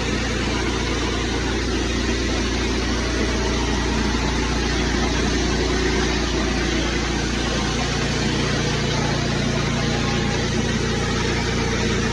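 Small petrol engine of gas-powered cleaning equipment running steadily, with a constant hiss over it.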